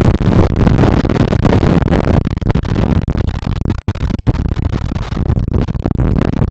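Loud, rough rumbling noise that flutters in level, with two brief dropouts near the middle.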